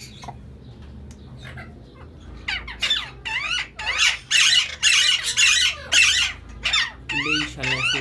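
Caged birds squawking: a loud, rapid run of harsh rising screeches starts about two and a half seconds in, with a lower clucking joining near the end.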